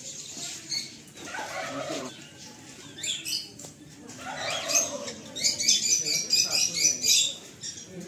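A flock of small aviary birds chirping and chattering, many short high calls overlapping, busiest and loudest in the second half.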